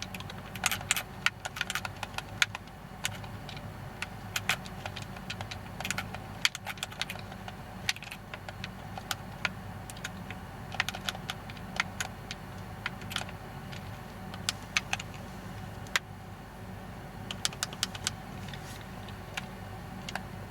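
Irregular clusters of light clicks and clinks, like small hard objects being handled, over a steady low hum.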